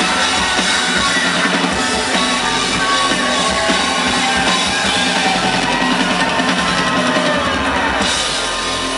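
Live rock band playing an instrumental passage, with drum kit and guitars. The high end thins out near the end.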